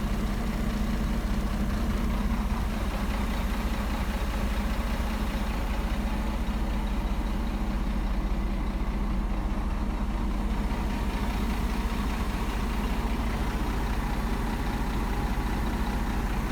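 Scania G420 truck's six-cylinder diesel engine idling steadily.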